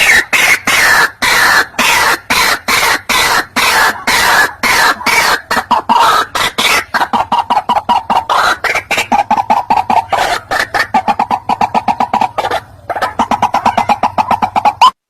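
White-breasted waterhen calling: a loud, fast run of harsh croaking notes repeated several times a second, with a brief break near the end.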